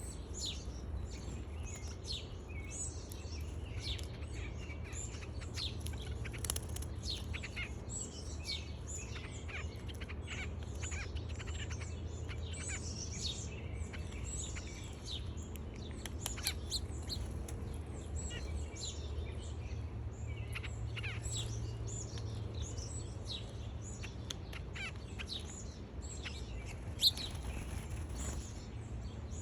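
Many small songbirds chirping and twittering, with short, quick calls overlapping throughout over a steady low hum. One sharp tap sounds about 27 seconds in.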